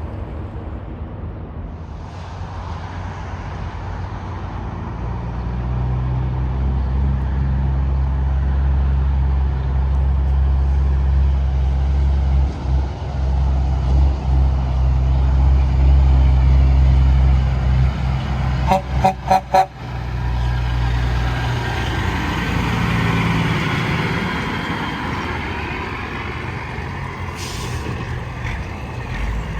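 Semi-truck traffic on an interstate: a tractor-trailer's engine drone builds as it approaches, then an air horn gives about five quick short toots a little past halfway, followed by tyre and road noise of passing trucks.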